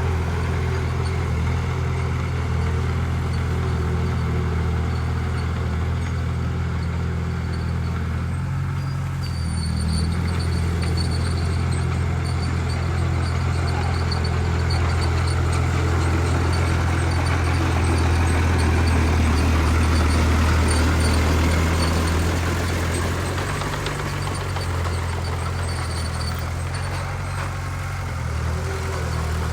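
Heavy diesel engine running steadily, with a deep drone that swells a little under load partway through.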